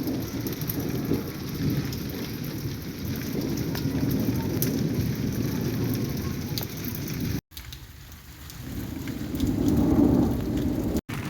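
Heavy rain pouring steadily, a dense hiss with a deep low rumble under it. The sound cuts out suddenly about two-thirds of the way through, then swells back louder.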